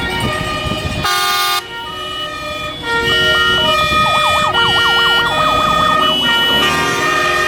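Sirens of several passing fire engines sounding together: two-tone hi-lo sirens stepping between their pitches, a short loud horn blast about a second in, and a fast yelping siren through the middle.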